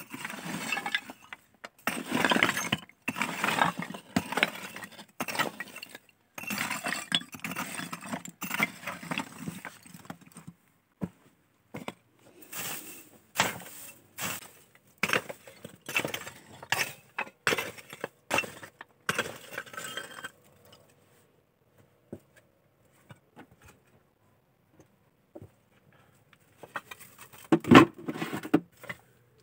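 Irregular clinking, knocking and scraping of hard, brittle building debris being handled. After a quiet spell of several seconds comes one loud knock near the end.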